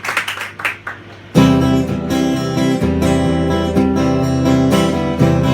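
An acoustic guitar starts strumming chords about a second and a half in and keeps playing steadily, opening a live song.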